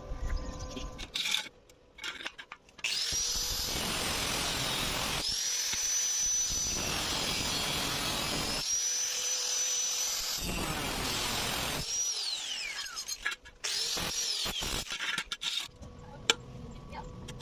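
Angle grinder cutting metal: a long run of grinding noise with the disc's high whine held steady over it. The whine winds down in a falling tone about twelve seconds in, and a second, shorter run follows and winds down the same way.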